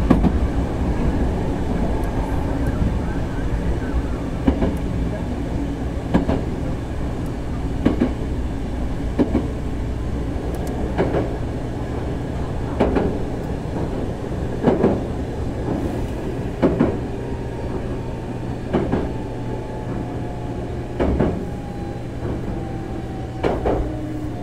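Hankyu 6000-series electric train running on the rails: a steady rumble with a wheel clack over the rail joints about every two seconds. The clacks slowly space out, and a thin whine falls in pitch in the second half as the train slows.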